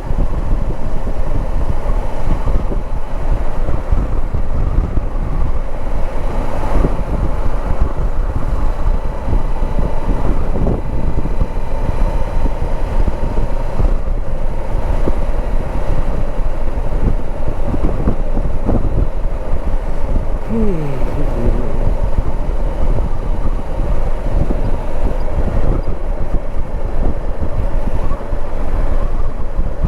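Honda CB500X's parallel-twin engine running under way, with steady wind noise buffeting the microphone.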